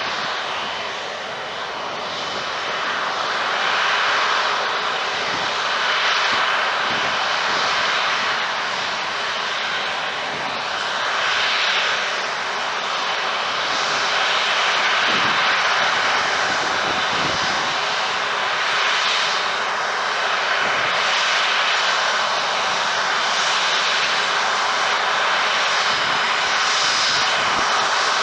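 Airbus A330-200 twin turbofan jet engines running loud and steady, a dense roar with a faint high whine over it.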